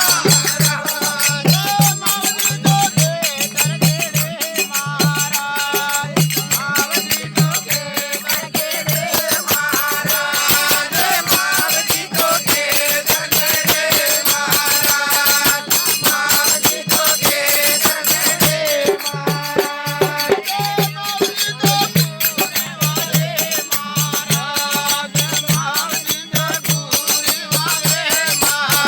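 Bhajan music: a steady low drum beat with a dense shaken, rattling percussion and a wavering melody over it.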